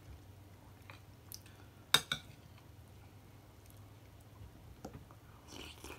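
A few light clicks and taps of cutlery against dishes, with one sharp click about two seconds in.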